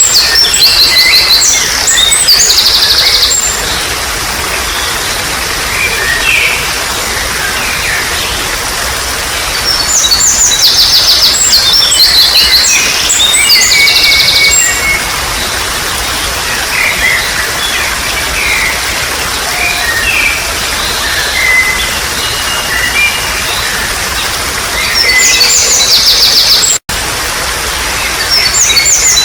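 Songbirds singing in loud bouts of rapid high chirping notes, recurring about every ten seconds with softer calls between, over a steady hiss of trickling water. The sound drops out for an instant near the end.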